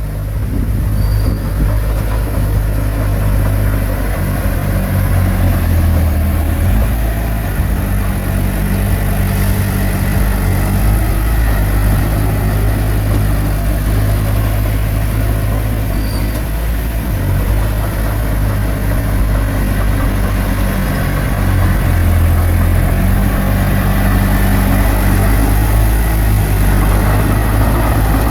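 Heavy diesel engine of a bulldozer running steadily, its pitch shifting a little now and then, a bit louder in the last third.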